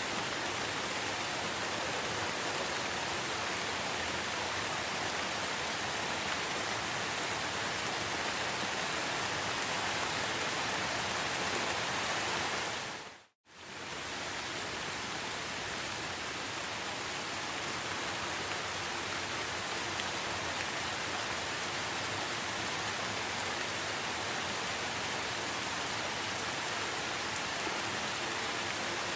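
Steady, even hiss of heavy rainfall, with no birds or other calls standing out. About thirteen seconds in it fades out to silence for a moment and fades straight back in.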